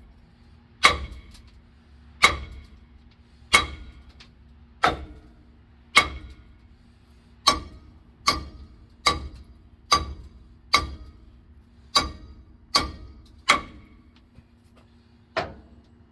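Hammer blows on the seized brake drum of a 1965 Chevy C30: about fourteen sharp, ringing metal strikes, roughly a second apart and quicker in the middle, as the locked-up drum is beaten to free it.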